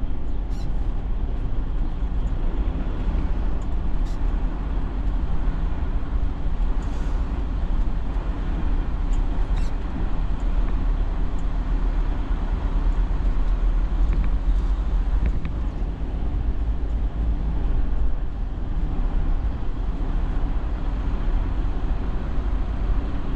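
Semi-truck's diesel engine running steadily, a low drone heard from inside the cab as the truck creeps forward.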